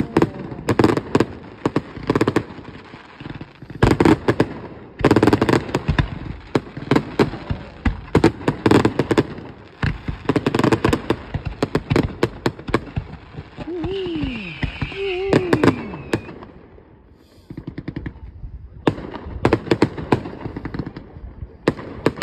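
Fireworks going off in rapid volleys of sharp cracks and booms, bunched into dense clusters with a short lull about three-quarters of the way through. A high wavering whistle comes through a little past the middle.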